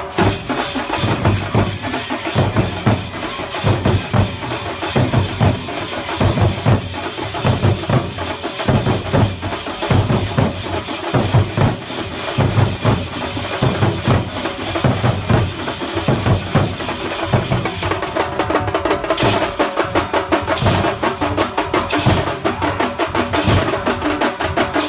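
Thambolam drum ensemble playing a fast, driving rhythm: deep bass-drum strokes under rapid side-drum beats. From about eighteen seconds in, louder sharp accented strikes stand out.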